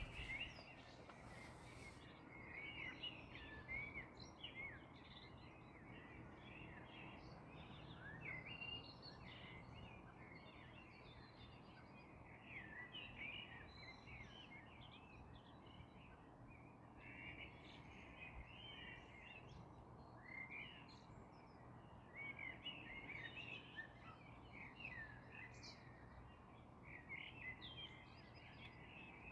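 Faint birdsong: many small birds chirping and twittering in quick, overlapping short calls, over a soft outdoor background hush.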